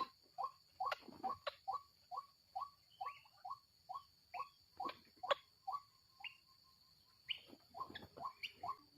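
White-breasted waterhen calling: a long run of short, falling notes, about two to three a second, which breaks off briefly after about six seconds and then starts again.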